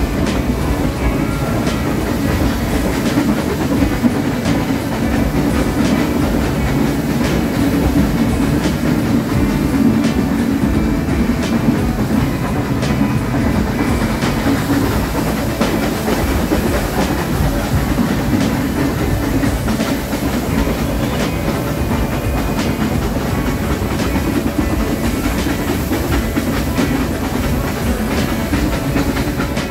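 Nilgiri Mountain Railway toy train running on its narrow-gauge track: a steady rumble with the wheels clattering over the rail joints.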